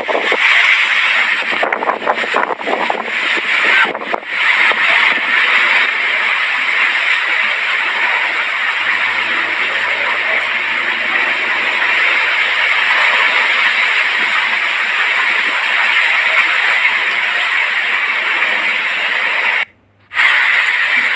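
Strong wind blowing: a loud, steady rushing noise, uneven and gusty in the first few seconds. The sound cuts out for a moment near the end.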